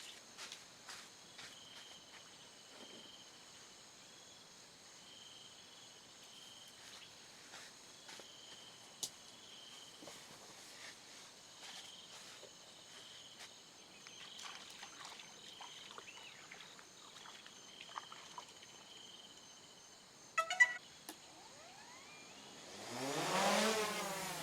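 Quiet forest ambience with a faint, high chirping call repeating about once a second, and scattered light clicks and taps. About twenty seconds in comes a short burst of sharp clicks, and near the end a louder sound with a shifting pitch comes in.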